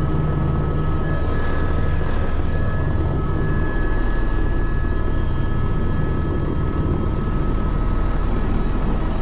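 Helicopter running with a steady, loud drone and a constant high whine over it.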